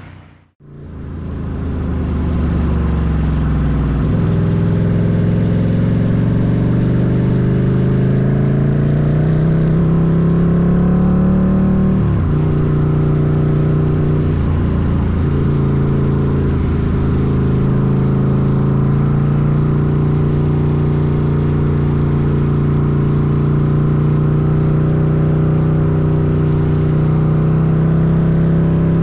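Ducati Scrambler's air-cooled L-twin engine pulling along a trail: after a brief drop-out at the very start it comes back in and revs up, drops in pitch at a gear change about twelve seconds in, eases off briefly a couple of times, then holds a steady cruise.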